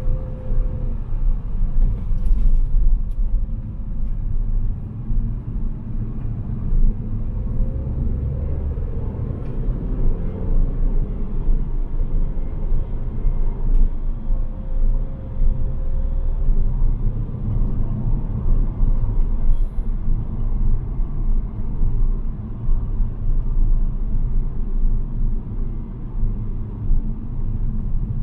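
Car driving: a steady low rumble of engine and road noise, with a faint engine note that rises and falls a little with speed.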